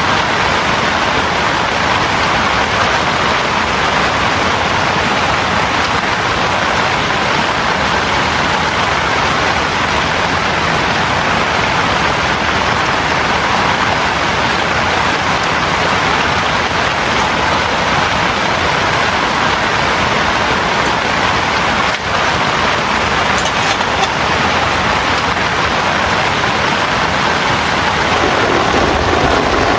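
Heavy rain pouring steadily, an even, unbroken downpour.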